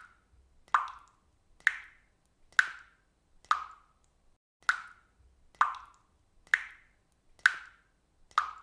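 Water dripping from a faucet: single drops plopping at a steady pace, about one a second, each a short, bright plop that fades quickly.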